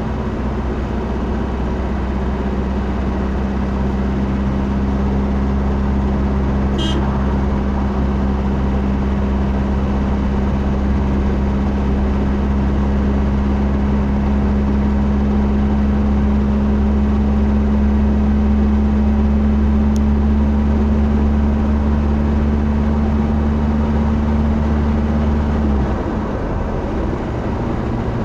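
Steady low drone of a car engine and road noise, with the deepest part of the hum dropping away near the end.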